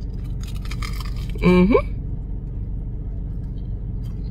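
Crunchy biting and chewing of a battered Korean corn dog coated in Fruity Pebbles cereal, then a short rising 'mm' of enjoyment about a second and a half in. A steady low hum of the car's cabin runs underneath.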